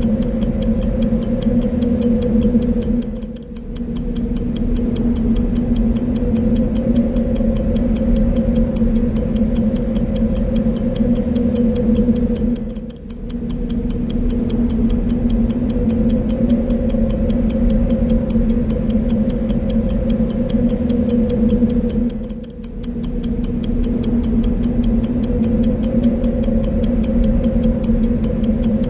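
Clock ticking steadily and evenly over a constant wind-like rushing noise, which dips briefly three times, about nine and a half seconds apart.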